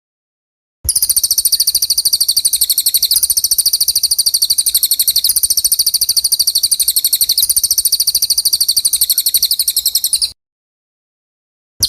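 Recorded songbird call played as 'isian' tutor song for training white-rumped shamas: a rapid, even string of high-pitched chirps, about eight a second. It starts abruptly about a second in and cuts off abruptly near the end, then a short burst of the same chirping begins right at the close.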